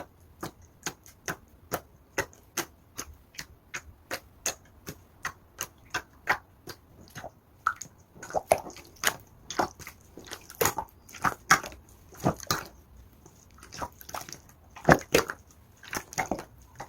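Green clear slime being pressed and poked by hand, giving a run of wet clicks and pops about twice a second. They grow louder and come in clusters in the second half.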